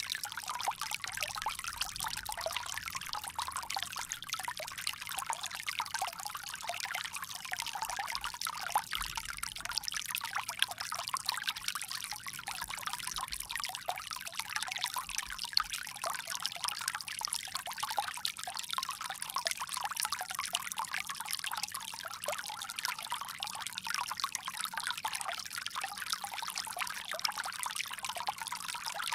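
Water pouring steadily from a bamboo spout, a continuous light trickling and splashing.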